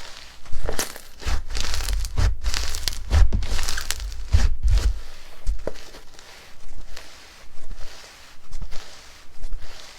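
Hands squeezing and pressing slime, making crackly, sticky squishes with low thumps that are dense in the first half. After that they settle into separate presses, one a little under every second.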